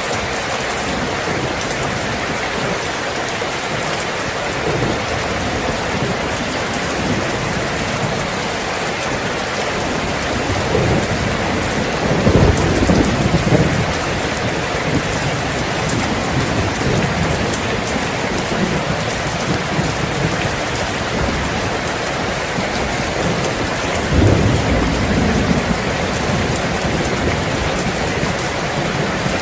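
Steady heavy rain falling, with rolls of thunder rumbling low twice, about a third of the way in and again most of the way through.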